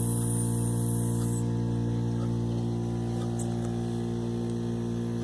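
Old refrigerator running with a steady electrical hum. A high hiss is heard over it in the first second or so.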